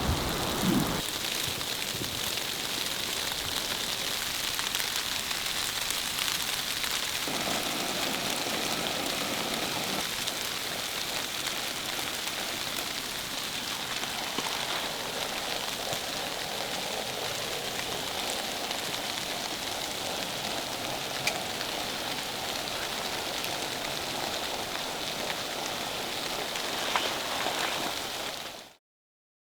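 Steady rain falling, an even hiss that fades out to silence just before the end.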